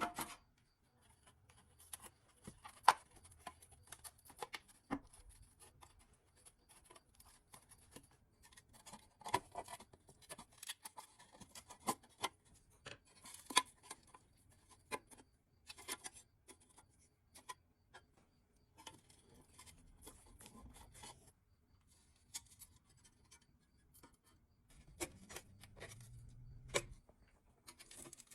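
Hand work on a pressed-steel toy truck: irregular scraping and rubbing, with scattered sharp clicks and taps of tools against the metal.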